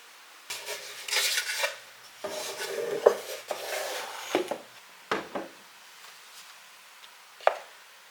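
Household objects being handled and moved: a few seconds of rubbing and scraping, then several light knocks as things are set down, the sharpest near the end.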